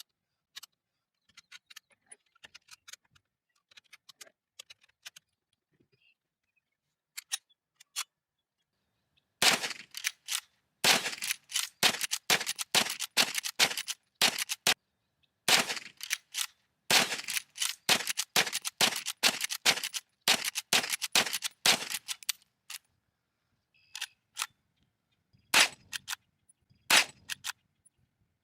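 Rapid runs of sharp clicks and strokes, dense and loud through the middle, with sparse faint clicks before them and a few separate knocks near the end.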